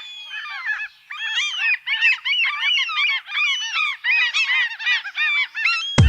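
A flock of gulls calling, many short arched cries overlapping densely.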